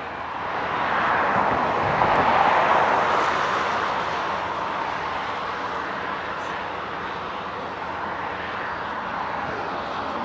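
Jet aircraft engines making a steady rushing noise that swells about a second in, is loudest around two to three seconds, then eases off to a steady level.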